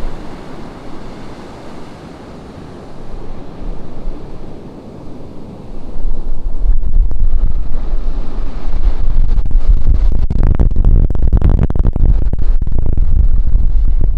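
Ocean surf washing on a beach, with wind buffeting the camera microphone. About six seconds in the sound turns much louder with a low rumble as the wind gusts.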